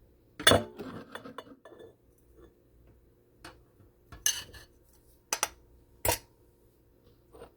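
Scattered hard clinks and knocks of kitchen items being handled, the electric grinder's bowl, lid and utensils set down and moved. The loudest knock comes about half a second in, then single taps and a few quick pairs follow with pauses between.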